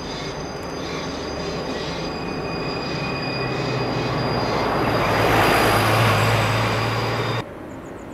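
Ikawa Line narrow-gauge train running with its wheels squealing in steady high tones over the rumble and a low hum, growing louder. It cuts off suddenly near the end, leaving fainter outdoor noise.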